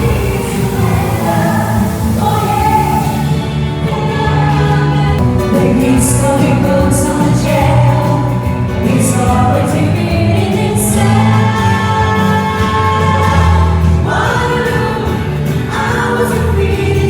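Music with a choir of voices singing, held notes over a steady accompaniment.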